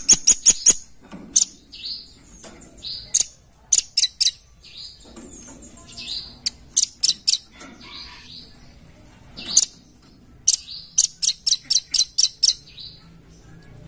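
Velvet-fronted nuthatch (red-billed nuthatch) calling: quick runs of sharp, high chirps, several a second, broken up by short slurred notes.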